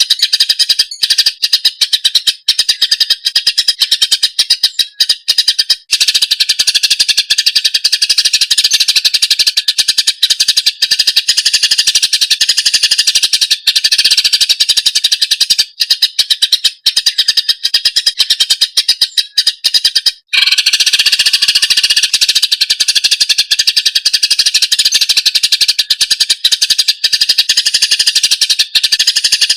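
Cucak ijo (green leafbird) singing a loud, continuous stream of rapid, high chattering notes, with a short break about 20 seconds in.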